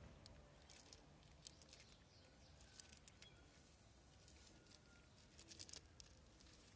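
Faint, irregular clusters of crisp clicks: stray cats crunching dry food.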